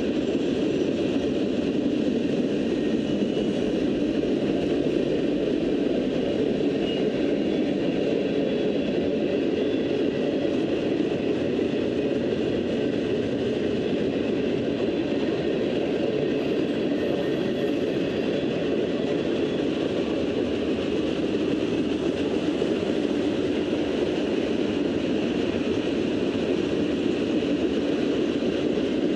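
Cars of a mixed freight train rolling past at a steady speed, a continuous rumble of steel wheels on rail with no break.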